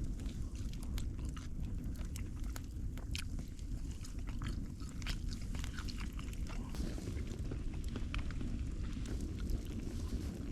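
A person chewing food, grilled chicken on a stick, with many small irregular clicks and crunches over a steady low rumble.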